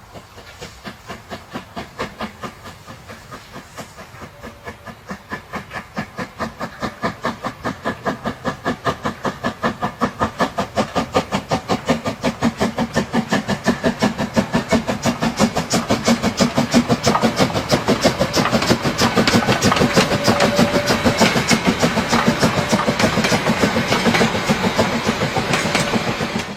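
Steam locomotive running, with a steady rhythmic beat about four times a second that grows steadily louder as it approaches.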